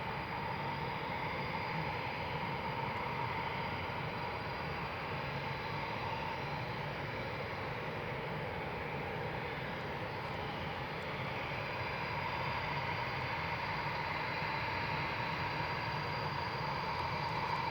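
Eurofighter Typhoon's twin EJ200 turbofans running at low power: a steady jet rush with a whine that swells and eases slightly.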